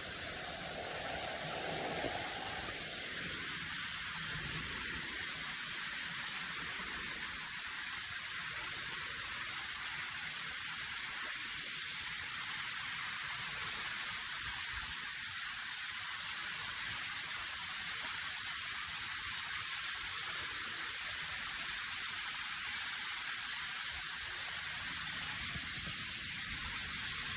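Steady rush of falling water from a waterfall, an even hiss with no break, plus a brief low rumble in the first few seconds.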